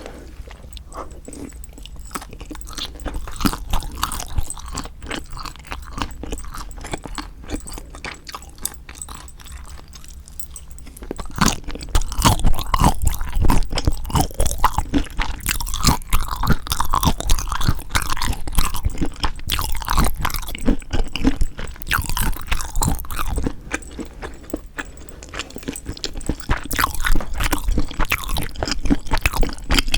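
Close-miked eating of spicy seasoned marinated raw shrimp: wet chewing with many small crunchy clicks and bites. The chewing gets louder and busier about a third of the way in, eases off, then picks up again near the end.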